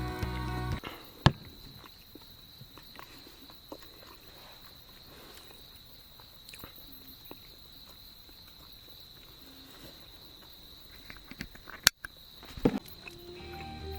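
Night insects, crickets or the like, keeping up a steady high-pitched trill, with a few sharp clicks about a second in and near the end. Background music cuts off about a second in.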